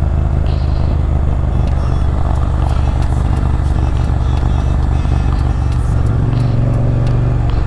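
Motorcycle engine running steadily while riding, with road and wind noise; its note shifts about six seconds in.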